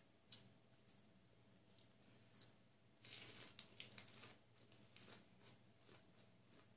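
Faint mouth sounds of a person eating with her fingers: scattered wet chewing clicks, with a denser flurry about three seconds in as she puts food into her mouth.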